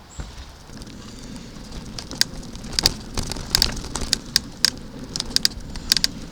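Bicycle rolling along a gravel towpath: a low tyre rumble with irregular sharp clicks and rattles, which grow more frequent about two seconds in.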